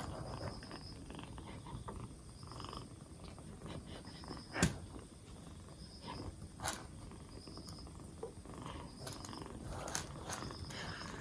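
A cat purring steadily, with a few sharp clicks or taps, the loudest about halfway through.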